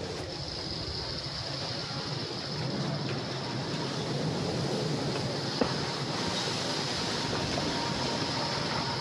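Wind blowing, a steady rushing noise with a low rumble that grows a little louder about three seconds in, and one sharp click a little past halfway.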